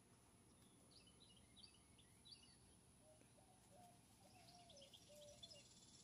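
Faint bird calls: short high chirps in two spells, and a lower string of held notes that start about halfway through.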